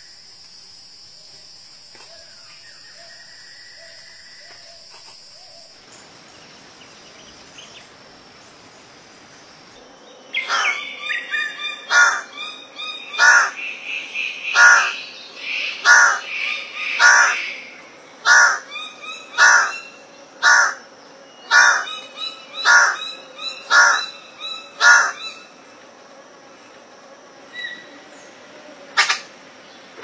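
A forest bird calling loudly and repeatedly, about fourteen calls roughly a second apart over fifteen seconds, starting about a third of the way in. Fainter, scattered calls follow near the end. Before the calling starts, a steady high insect hum and a few soft bird notes can be heard.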